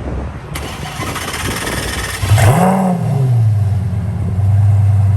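Lamborghini engine started warm: the starter cranks for about two seconds, the engine catches with a brief rev flare, then drops to a steady idle.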